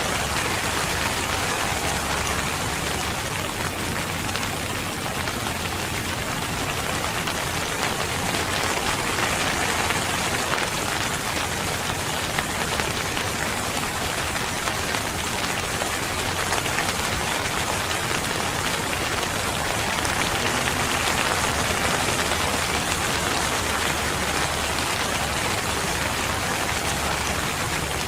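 Steady rain falling and pattering on a surface, an even dense hiss with no pause.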